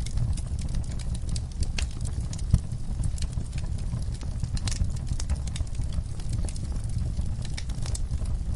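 Wood fire crackling in a fireplace: irregular sharp snaps and pops over a low steady rumble of flame, with one louder pop about two and a half seconds in.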